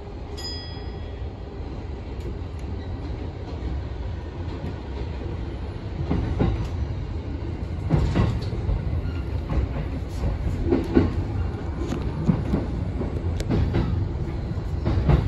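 E233-1000 series electric commuter train heard from inside the driver's cab as it pulls away and gathers speed: a low running rumble that grows louder. From about six seconds in, the wheels knock over rail joints and points. A short high beep sounds just at the start.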